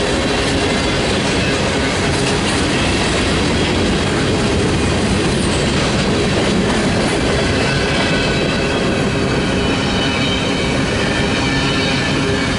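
Freight train cars rolling past, a steady loud rumble of steel wheels on the rails, with faint high-pitched wheel squeal that grows more noticeable in the second half.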